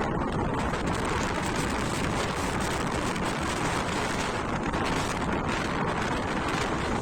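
Strong wind blowing across the microphone: a steady, dense rushing noise.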